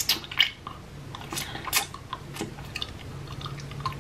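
A piece of lemon hard-candy cane being bitten and chewed, close to the microphone: several sharp, irregular cracks among softer wet chewing.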